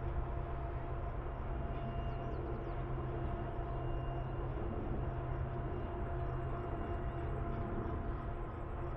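Freight train of double-stack container cars rolling past: a steady low rumble of wheels on rail, with faint thin whining tones held over it.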